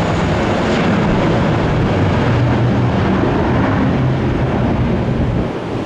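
Jet airliner engines heard as a loud, steady noise with a low hum underneath, mixed with wind on the microphone.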